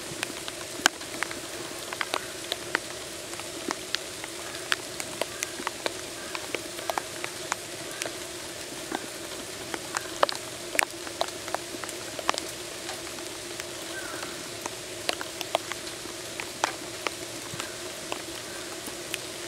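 Rain dripping: irregular sharp drips and taps scattered throughout, over a steady low hum.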